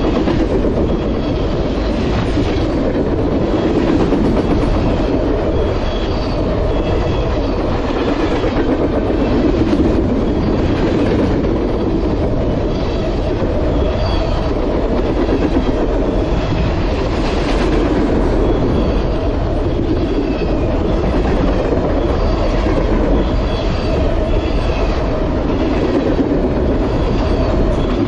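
Freight train cars passing close by at speed, their steel wheels rolling on the rails with a loud, steady running noise.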